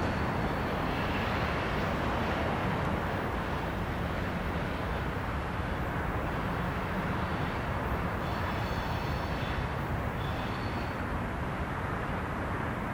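Low, steady rumble of a freight train out of sight, slowly fading, with faint high thin tones on top.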